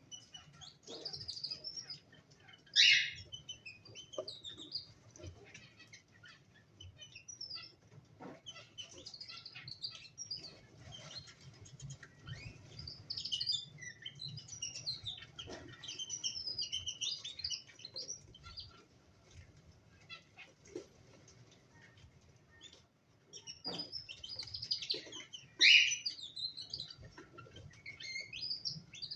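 Cockatiels chirping and calling on and off, with two loud calls standing out, one about three seconds in and one near the end.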